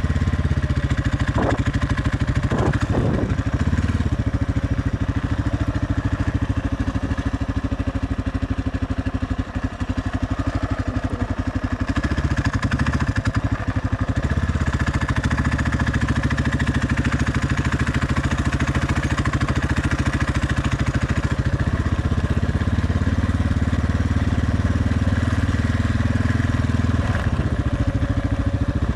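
Suzuki DR650's single-cylinder four-stroke engine running steadily under way. Its note changes about a third of the way through and again later.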